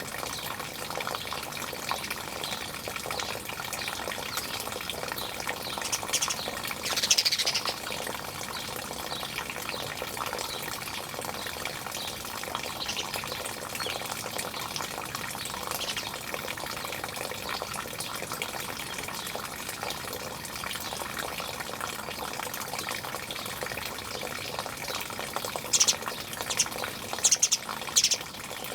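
Birds chirping and calling over a steady rush of running water, with one louder, falling call about seven seconds in and a few sharp calls near the end.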